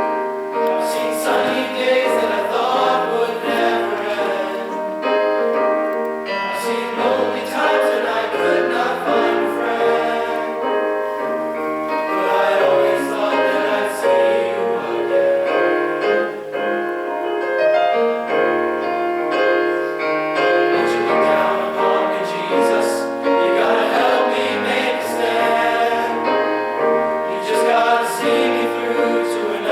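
Men's chorus singing in harmony with piano accompaniment.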